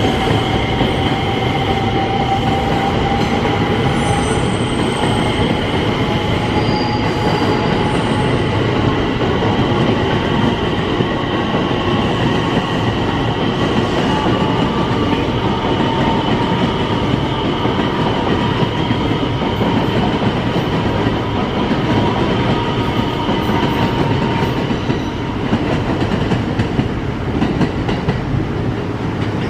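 A train running through a railway station, with a steady heavy rumble of wheels on the track. Over it are high steady whines that slowly rise in pitch and fade out near the end, with a few short high squeaks about four to eight seconds in.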